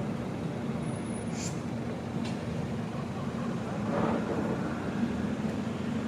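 Steady vehicle-like road rumble with a low hum, two brief clicks in the first half and a short swell of noise about four seconds in.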